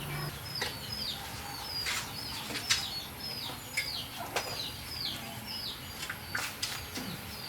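Small birds chirping: a steady run of short, high chirps that each slide down in pitch, several a second, with a few sharp clicks among them.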